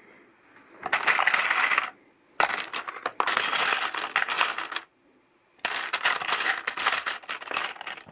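Hands rummaging through a pile of loose LEGO pieces: a dense clatter of small plastic parts in three spells with short pauses between, while searching for a minifigure hairpiece.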